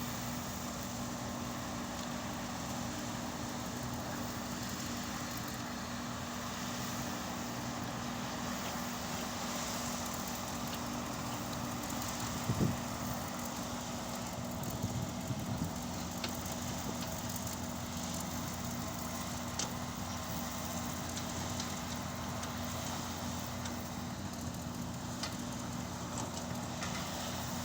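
Excavator's diesel engine running steadily, with a single knock about halfway through and a few lighter clicks soon after.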